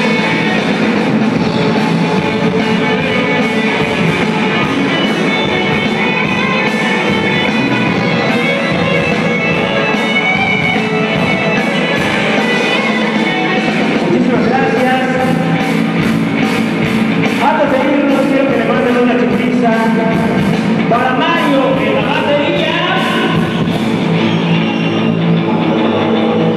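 A rock song played loud, with guitar, drums and singing, with sliding guitar or vocal lines in the second half.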